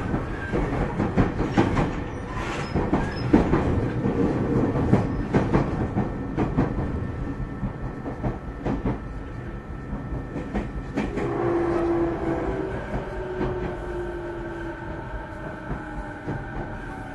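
Running sound inside a JR 209 series electric train's motor car: wheels clicking over rail joints, then from about eleven seconds in a whine from the traction motors that falls steadily in pitch as the train slows.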